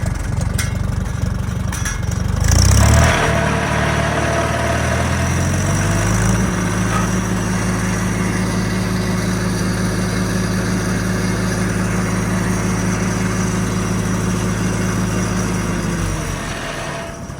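Farmall H tractor's four-cylinder gasoline engine running through its new IH reproduction muffler and rain cap. About three seconds in, the engine is throttled up with a brief louder rush; it speeds up to a steady higher speed, holds there, and drops back down near the end.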